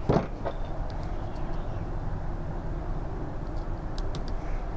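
Steady low background rumble, with a few small sharp clicks and taps from an Allen wrench and small screws being worked on a plastic headphone housing: one just after the start, another about half a second in, and a few light ones near the end.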